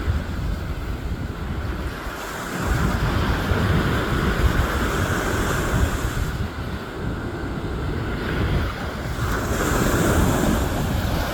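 Sea waves washing onto the shore, swelling louder a couple of seconds in and again near the end, with wind buffeting the microphone in a low rumble.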